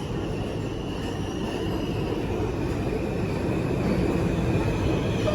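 New York City subway train running on the rails, heard from inside a car: a steady rumble of wheels and motors with a faint high whine, growing slowly louder.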